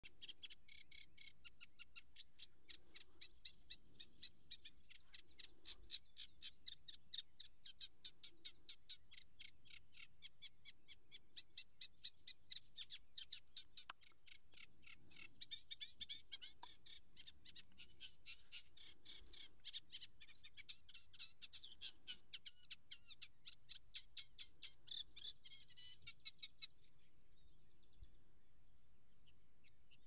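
A small bird calling in a fast, steady string of short high chirps, several a second, with one sharp click about halfway through; the chirping stops a few seconds before the end.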